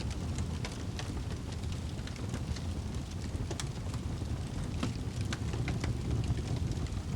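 Wood fire burning in a fireplace: a steady low roar of the flames with frequent sharp crackles and pops at irregular intervals.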